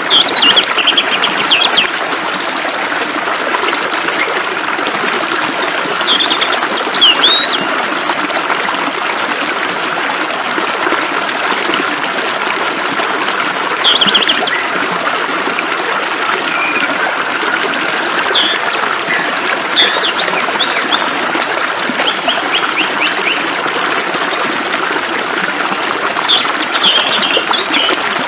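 Running water hissing steadily, with songbirds calling over it in short bursts of quick, high chirps every few seconds.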